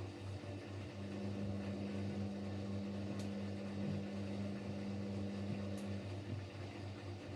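Siemens Siwamat Plus 574 washing machine running late in its short spin, just before the final spin. A steady low hum is joined by a higher steady tone for about five seconds, starting about a second in, with a few faint ticks.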